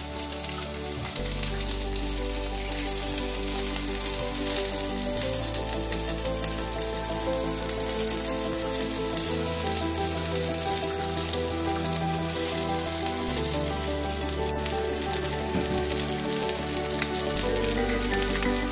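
Tomato slices and pepper pieces sizzling steadily in a hot frying pan. Background music with sustained notes and a slow-changing bass line plays throughout.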